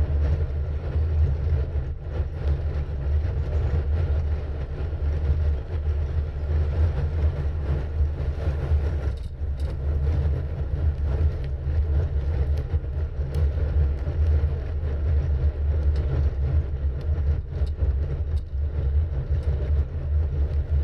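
Steady low wind rumble on the microphone of a moving bicycle, mixed with road noise, with a few faint clicks.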